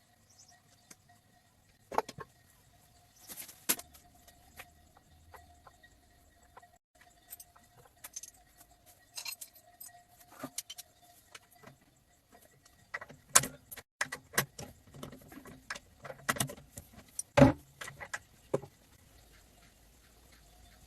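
Metal tools and engine parts clinking and knocking as they are handled, in scattered irregular strikes that come thickest in the second half, over a faint steady tone.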